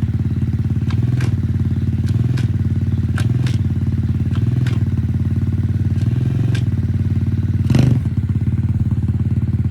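Motorcycle engine idling steadily, with a few light clicks over it and a short burst of noise near the end.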